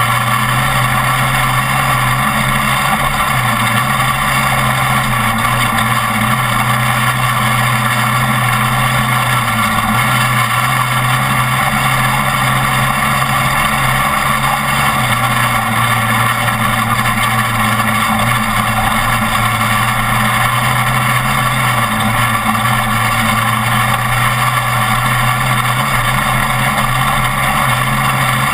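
Off-road race truck's engine running hard and steadily at speed, under loud road and wind noise, its note dipping briefly a few times.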